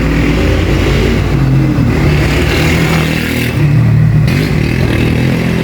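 Mercedes-Benz A160 (W168) running, its engine note shifting up and down, while the car is worked to bring out a noise from the front end.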